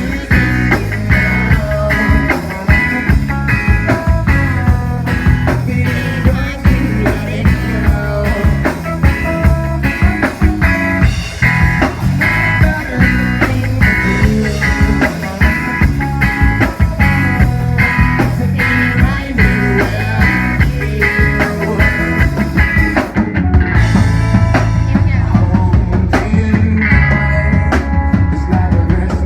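Instrumental break of a rock song, with guitar, bass and drum kit playing a steady beat; about 23 seconds in the higher instruments drop away and the bass carries on.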